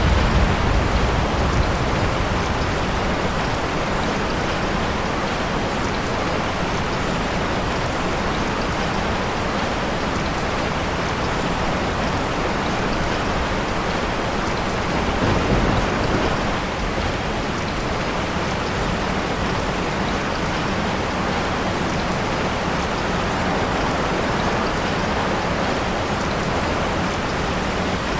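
Steady rain with thunder. A low rumble fades out over the first couple of seconds, and another thunder rumble swells and dies away about halfway through.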